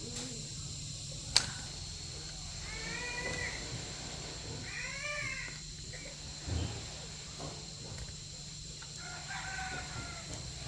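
A rooster crowing three times, each crow lasting about a second. A sharp click comes just over a second in, and a dull thump about halfway through.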